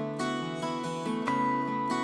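Background music: acoustic guitar playing plucked notes.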